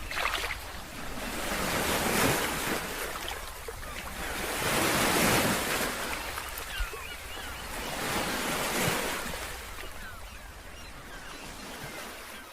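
Sea waves breaking and washing in, surging louder and ebbing back every few seconds, then fading out near the end.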